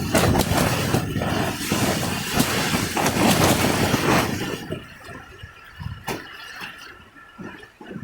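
Rain driven by a strong gust of wind, loud for about four and a half seconds and then easing off, with a few sharp knocks and rattles as it dies down.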